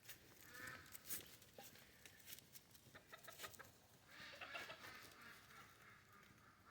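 Faint calls of farmyard fowl: a short call about half a second in and a longer run of calls around four to five seconds in, with a scatter of light clicks and knocks in between.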